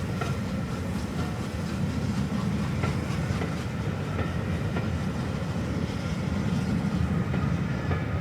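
Passenger coaches of a steam-hauled train rolling past with a steady low rumble and light clicking of wheels over the rails.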